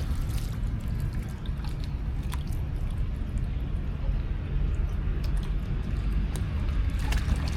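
Water splashing and dripping in a pool, with scattered short splashes over a steady low rumble.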